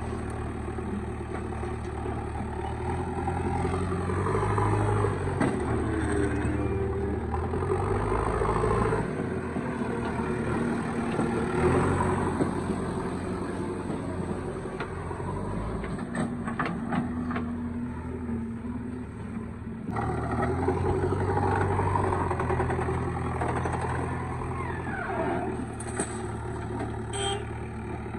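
Diesel engines of a backhoe loader and tractors running while mud is loaded, the engine note rising and falling with the work. A few clanks come about halfway through.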